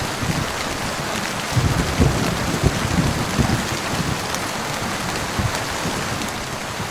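Steady heavy rain, with irregular low thuds underneath.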